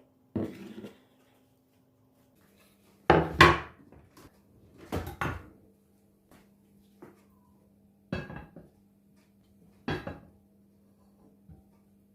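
Kitchen handling sounds: about five separate knocks and clatters, the loudest a pair about three seconds in, like dishes, pans or cupboard doors being moved and set down. A faint steady low hum runs underneath.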